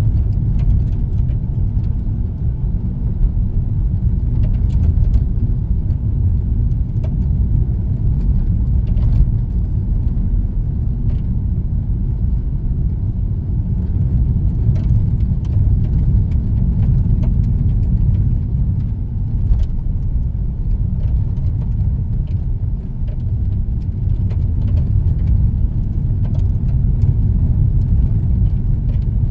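Steady low rumble of a car driving at speed, heard from inside the cabin, with a few faint scattered ticks.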